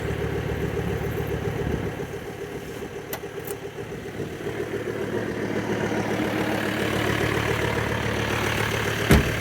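Mercedes turbo diesel engine in a Toyota 4Runner idling steadily. A single sharp thump sounds near the end.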